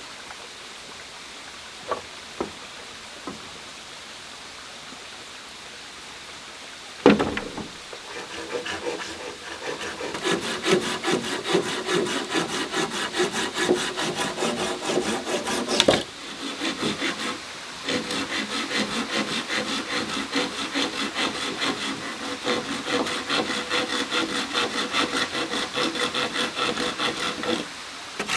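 Hand saw cutting through bamboo in quick, steady back-and-forth strokes, stopping briefly about halfway through and again near the end. Before the sawing there are a few light taps and one sharp knock.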